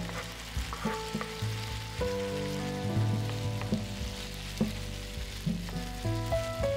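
Apples and sliced onions sizzling in butter in a frying pan, with a wooden spoon stirring them and knocking lightly against the pan now and then. Soft background music with held notes plays underneath.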